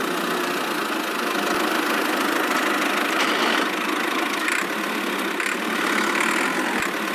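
Engine running steadily at idle, an even rough hum with no change in speed.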